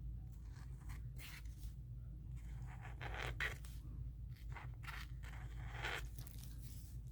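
White Posca paint marker drawn across paper in several short strokes, over a steady low hum.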